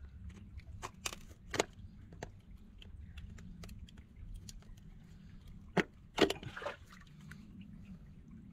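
Scattered knocks and clicks of work at a field drainage pipe in mud, over a faint steady low hum; the sharpest knocks come a little before and after six seconds in.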